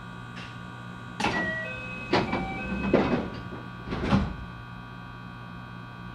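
Inside a JR West 223-series electric train car: a steady electrical hum from the car's equipment, broken by four short mechanical rattling, hissing bursts about a second apart.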